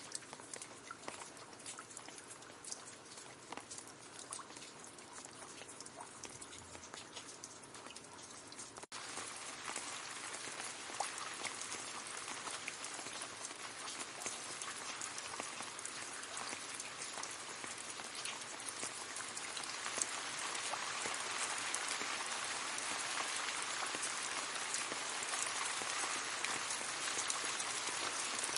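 Gentle rain pattering on leaves, a soft hiss dotted with many separate drop ticks. The sound cuts out for a split second about nine seconds in and comes back louder and denser, then gets a little heavier again toward the end.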